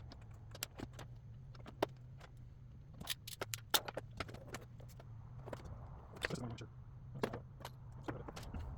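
Scattered sharp metallic clicks and clinks of hand tools and fittings being handled while PEX pipe connections are clamped, over a low steady hum.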